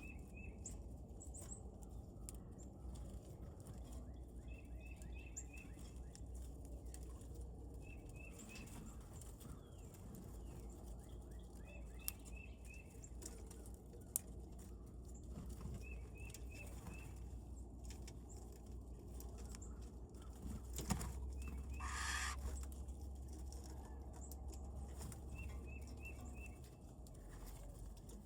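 Wild birds at a feeder: a bird repeats a short run of three to five quick high notes every few seconds. About three-quarters of the way through comes one brief, louder rushing sound like wingbeats, over a steady low rumble.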